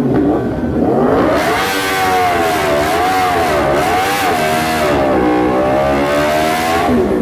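Car engine revving, its pitch rising and falling several times in a row, loud and steady in level.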